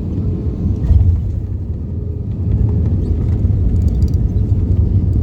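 Steady low rumble of a vehicle in motion heard from inside it, with a louder bump about a second in.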